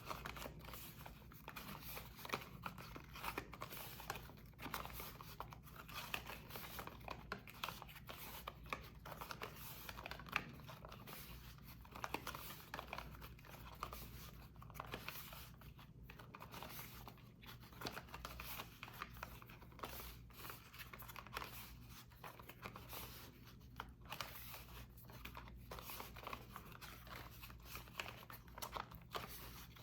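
Soap being worked, giving a continuous stream of small crackles and scratches.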